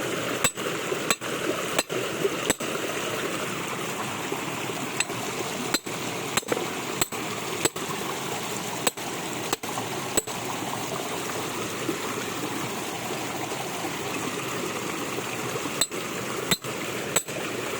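Steady rain and water noise, broken by sharp short knocks at irregular intervals, about one a second.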